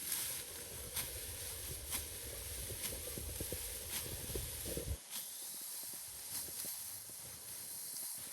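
Sickle cutting through stalks of storm-flattened rice, with sharp swishing cuts about once a second over rustling straw. A low rumble under the first five seconds cuts off suddenly.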